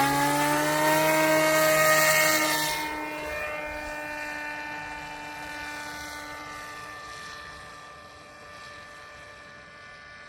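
Scratch-built Sky Hunter drone's motor and propeller whining on an automatic takeoff. The pitch rises over the first second or so, then holds steady while the sound fades as the aircraft climbs away.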